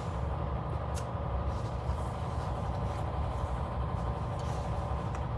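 Steady low background hum and rumble, with a faint click about a second in.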